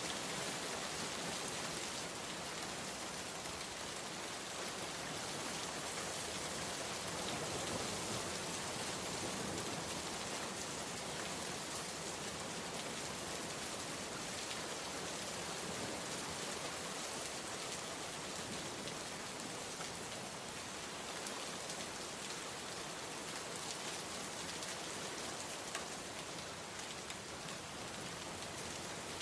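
Steady rain falling on a surface, an even hiss of rainfall with scattered individual drops ticking through it.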